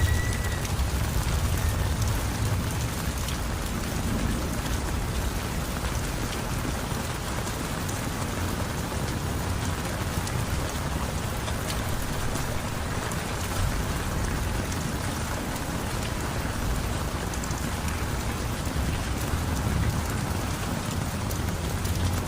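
Heavy rain falling steadily, a dense even patter. A low rumble of thunder fades away in the first moments and begins to build again near the end.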